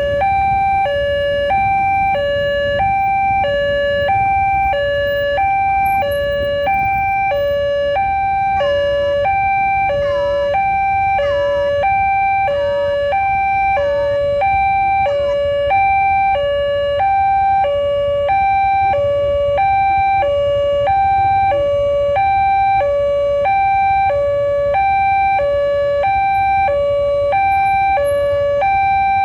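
Railway level-crossing warning alarm sounding steadily, two tones alternating about once a second each, over a low rumble.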